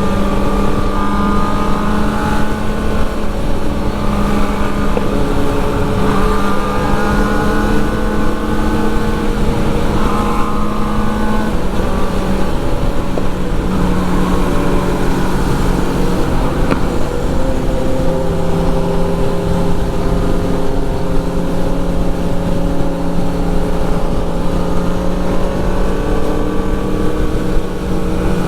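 Sport motorcycle engine running at a steady cruising speed, its note shifting slightly in pitch now and then, with wind rushing over the microphone.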